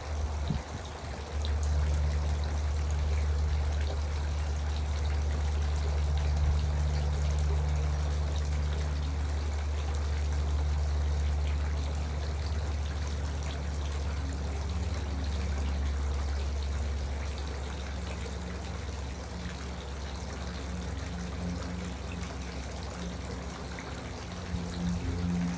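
Garden water fountain trickling and splashing steadily, with a steady low hum underneath.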